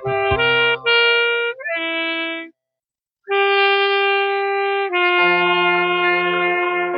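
Saxophone playing a slow song melody over a backing track. Everything stops for under a second about two and a half seconds in, then the saxophone comes back with long held notes.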